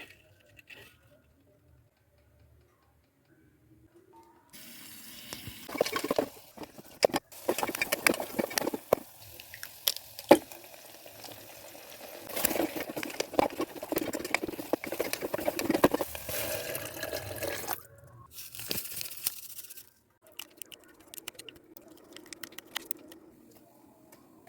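Water running and splashing, as when filling or rinsing a pot, mixed with clicks and clatter of handling kitchenware; it starts after a few quiet seconds and eases off near the end.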